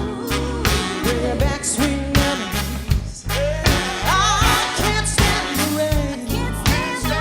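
A live soul band plays a steady drum-and-bass groove while a woman sings long, wavering, gliding vocal lines over it.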